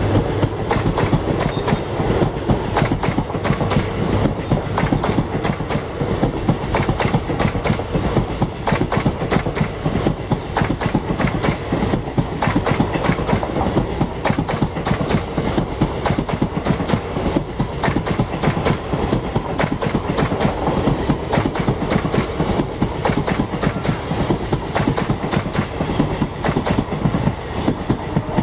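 Passenger train coaches passing close by, their wheels clattering steadily over the rail joints in a rapid clickety-clack over a continuous rumble.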